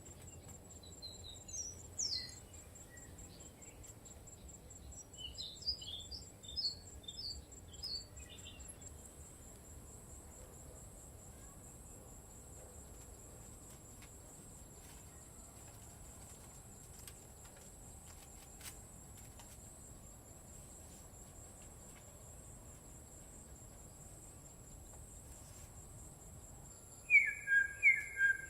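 Forest ambience: a steady, high, pulsing insect trill throughout, with scattered bird chirps in the first few seconds. Near the end a bird gives a loud series of sharp call notes.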